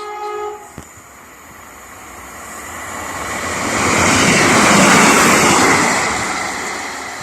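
A train's two-note horn cutting off just after the start, then the train passing: a loud rushing noise that builds to its loudest about five seconds in and then fades.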